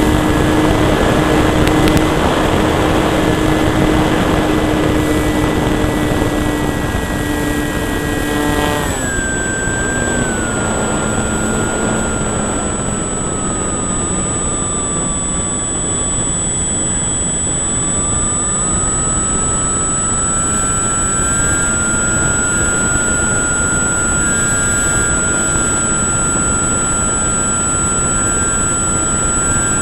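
Durafly Cessna 182 RC model plane's electric motor and propeller whining in flight, with wind rushing over the cowl-mounted camera. About nine seconds in the throttle comes back and the pitch drops, sinking lower for several seconds, then rises again and holds steady a little below its first pitch.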